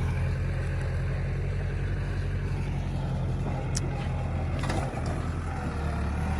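Kubota L5018SP tractor's diesel engine running steadily, its low note dipping and shifting about five seconds in.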